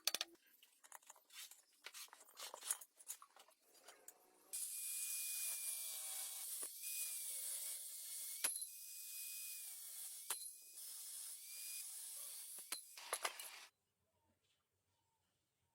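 Scattered clicks and scrapes, then a steady hiss with a faint wavering whistle and a few sharp clicks for about nine seconds, cutting off suddenly.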